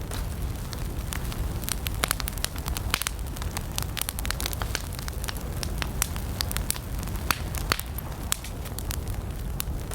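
Wood campfire burning: frequent irregular sharp crackles and pops over a steady low rumble of the flames.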